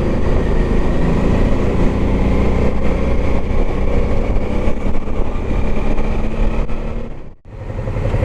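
Motorcycle engine running steadily with wind and road noise while riding. The sound fades out sharply about seven seconds in and comes straight back.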